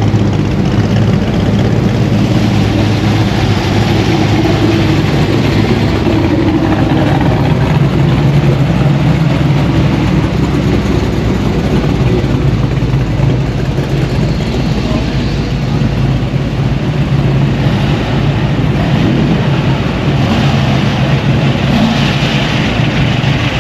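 Car engines idling and running steadily, a continuous low rumble.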